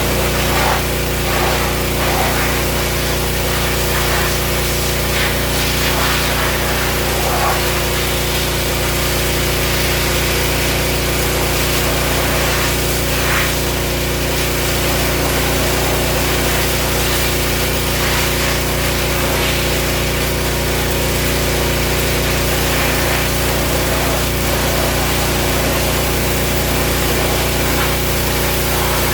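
Pressure washer running steadily: a constant motor and pump hum with a fast even pulsing under the hiss of the spray.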